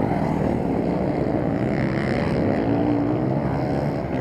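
Several motocross motorcycle engines running at once, their pitches rising and falling as the riders rev and shift.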